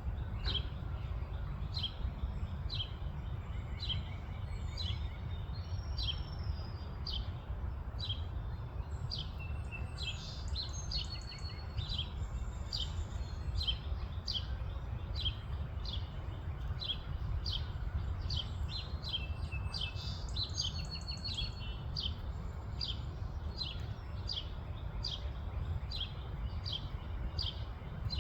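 Eastern towhee and other birds calling: a long run of short, sharp chip notes, more than one a second, with held whistled notes joining about ten seconds in and again around twenty seconds. A steady low rumble runs underneath.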